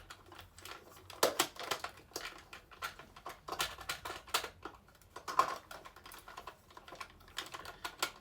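Irregular plastic clicks and taps from a Buzz Lightyear toy figure being handled and its parts worked, several clicks a second at uneven spacing.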